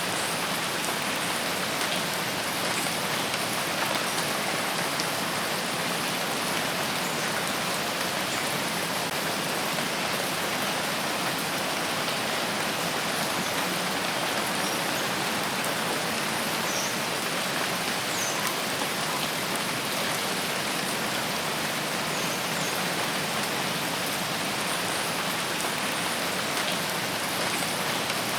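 Steady heavy rain falling on forest foliage, a dense, even hiss with no pauses.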